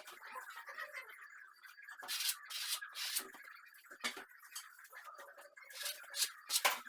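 Plastering tool scraping decorative plaster across a wall in a series of short strokes, about seven, the last ones loudest.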